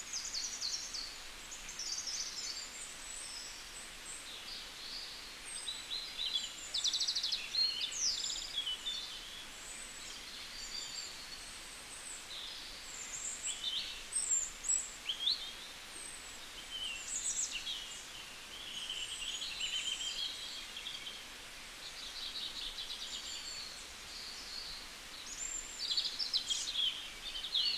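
Small songbirds singing and chirping, with many short trills and calls overlapping, over a steady faint hiss.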